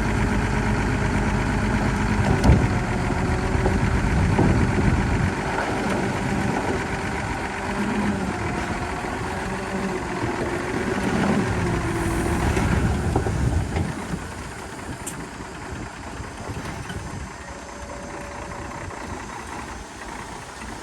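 Diesel engine of heavy earthmoving machinery running steadily, with a sharp clank a couple of seconds in. The engine is louder for the first two-thirds and then drops off noticeably.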